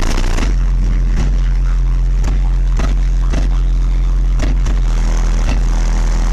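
Heavy, sustained bass from a truck's car-audio system, two Sundown Audio ZV4 12-inch subwoofers played very loud, its deep notes stepping lower about half a second in. Scattered sharp clicks come through over the bass.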